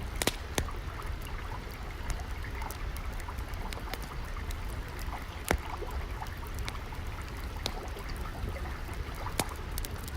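Wood fire crackling with scattered sharp pops, the loudest about half a second in and about five and a half seconds in, over a steady trickle of flowing water.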